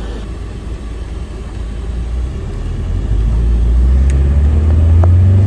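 A motor vehicle's engine running with a low rumble, growing louder about three seconds in.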